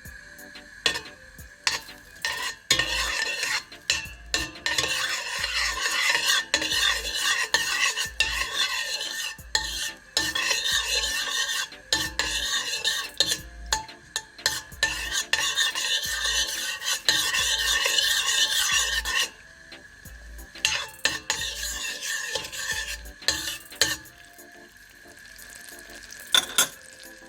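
Butter melting and sizzling in a saucepan while it is stirred, with the utensil clicking and scraping against the pan. The sizzle is loudest for most of the time, then dies down about two-thirds of the way in, leaving occasional clicks. A faint steady high tone runs underneath.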